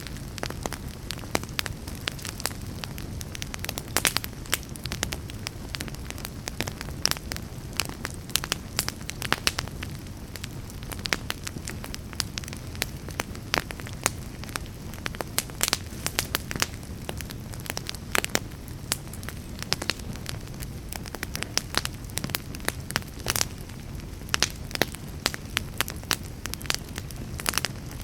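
Wood fire burning in a fireplace, a steady low rush of flames with frequent irregular crackles and pops.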